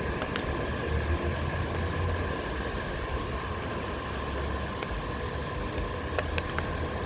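Onewheel electric board rolling over the beach: its hub motor gives a steady whine while wind rumbles on the microphone. A few sharp clicks of shells crunching under the tyre come about half a second in and again a little after six seconds.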